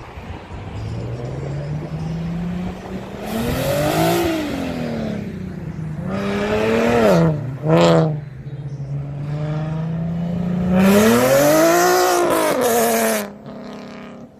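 A car engine revving hard several times, its pitch climbing and falling, with a quick sharp blip in the middle. The last and longest rev is the loudest and cuts off suddenly near the end.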